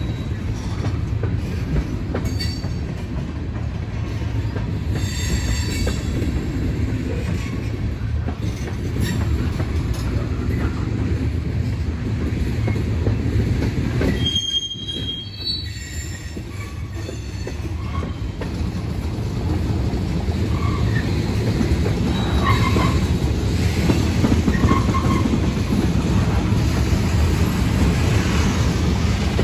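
Train cars rolling past on the rails: a steady heavy rumble, with high-pitched wheel squeals a few seconds in and again about halfway through.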